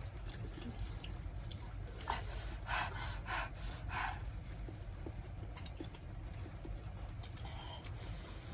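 Mouth noises of someone eating spicy noodles: a quick run of five or so short, breathy bursts between about two and four seconds in, over a low steady hum.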